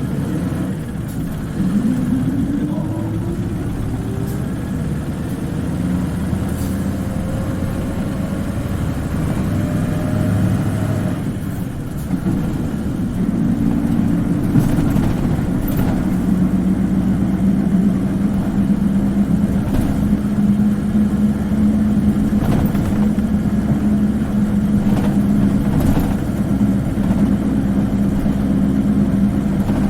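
Isuzu Cubic KC-LV380N city bus diesel engine heard from inside the bus, pulling away with a high-pitched rising whine that climbs twice through the first ten seconds, then, about twelve seconds in, settling into a steady drone at cruising speed with a few short knocks from the body. The high whine on pulling away is this particular bus's distinctive engine sound, unlike other Cubics.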